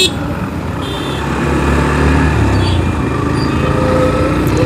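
Road traffic engines running while vehicles wait in a queue at a closed railway crossing, a steady low rumble with a few faint, brief higher tones over it.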